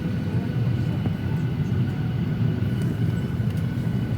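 Steady low drone inside a Boeing 737-800 cabin, an even hum with a faint steady whine above it.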